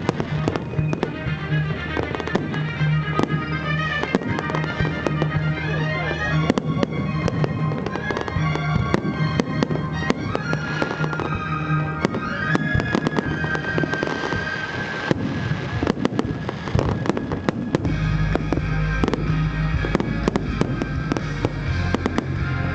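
Fireworks display: a rapid, continuous run of bangs and crackles from bursting aerial shells, with music playing along. The low end grows much heavier from about eighteen seconds in.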